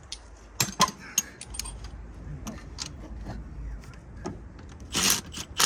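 Metal clinks and light rattles of hand tools and engine parts being handled during engine teardown, with a short burst of noise near the end.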